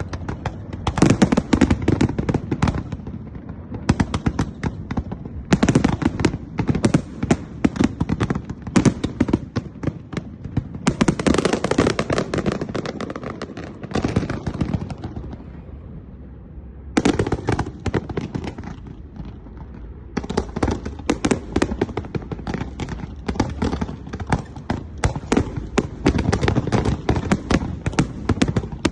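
Fireworks display: rapid volleys of crackling bangs and reports in dense clusters, with brief lulls between barrages.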